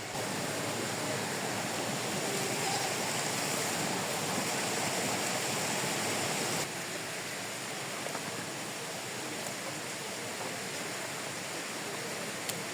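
Steady rush of flowing water, like a mountain stream, dropping a little in level about halfway through.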